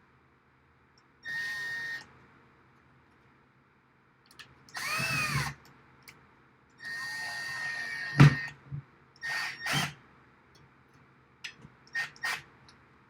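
Power drill run in short bursts while drilling holes in rack rails, its motor whine rising and falling as the trigger is squeezed and released. A sharp knock sounds about eight seconds in, the loudest moment.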